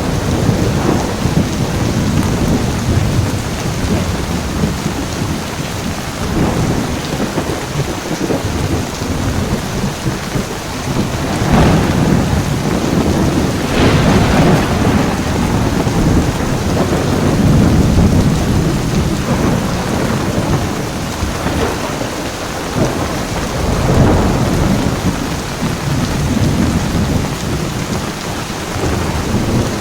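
Heavy rain pouring steadily with rolling thunder rumbling underneath, the thunder swelling louder at several points, most strongly around the middle.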